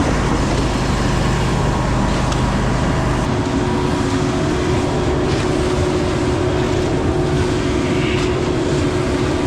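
An engine running steadily and loudly close by, its tone shifting about three seconds in.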